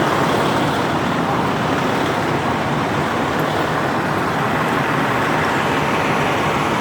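Steady rushing of an overflowing, flooded creek, a loud, even noise with no breaks.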